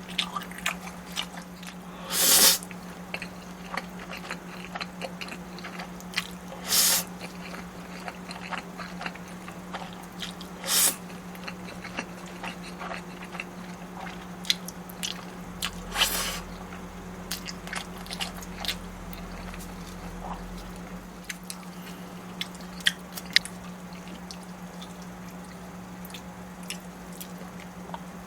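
Close-miked eating: steady chewing with wet mouth clicks, broken by about four louder bites or slurps. A steady low hum runs underneath.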